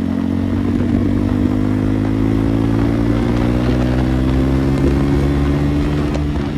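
KTM Duke 390's single-cylinder engine running with its exhaust removed, a loud, steady open-pipe note while riding, its pitch climbing slightly and easing off a little near the end.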